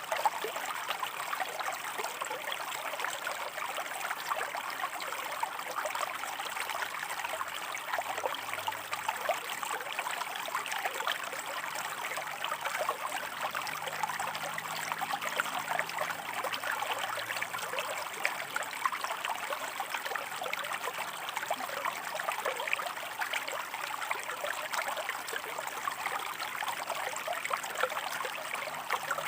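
Shallow river water running and splashing over rocks: a steady, even babble full of small splashes and trickles.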